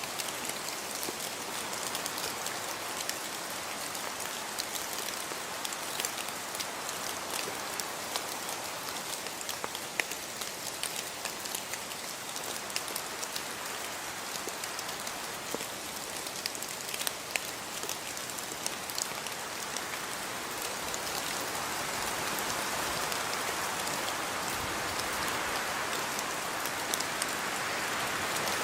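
Steady rainfall with individual drops ticking on a surface, growing a little heavier near the end.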